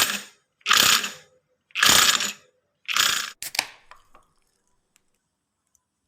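Four harsh ratcheting mechanical strokes about a second apart, each fading over about half a second, the last one a quick double.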